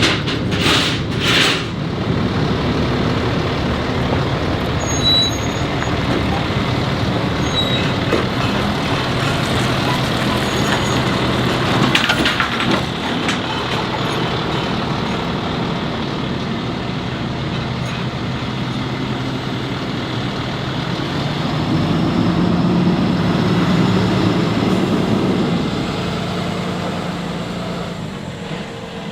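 Heavy truck engine running steadily, its pitch and level rising for a few seconds about three quarters of the way through. Two short air hisses about a second in.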